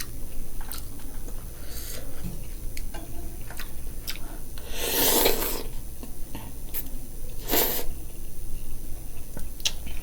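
Close-up eating of Buldak ramen noodles: chewing with small clicks throughout, and two louder noisy bursts, a longer one about five seconds in and a short one about two and a half seconds later.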